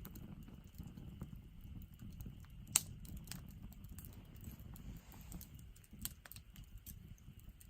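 Firewood burning and crackling in a fire pit, with irregular small snaps and two louder pops, the sharpest about three seconds in and another about six seconds in. A faint steady trill of insects runs behind it.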